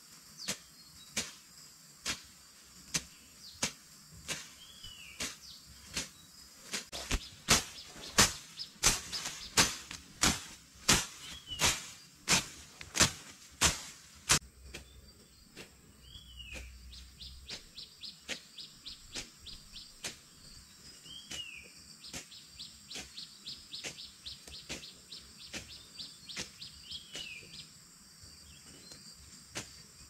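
A bird repeats a short falling call every few seconds over a high, steady insect drone. A run of sharp, evenly spaced ticks is the loudest sound, quickening in the middle and then giving way to a faster, fainter ticking.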